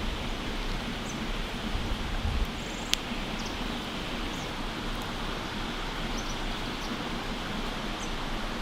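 Steady outdoor hiss with a single sharp pop about three seconds in and a few faint, high bird chirps.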